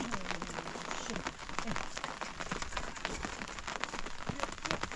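Rain falling steadily, with many separate drops striking a surface close by.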